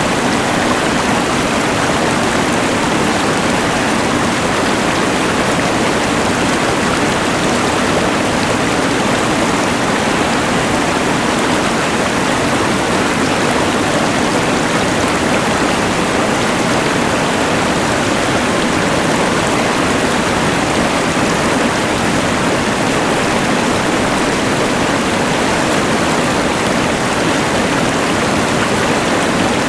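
Rushing mountain river mixed with a LectroFan white noise machine's noise: a steady, even rush that does not change.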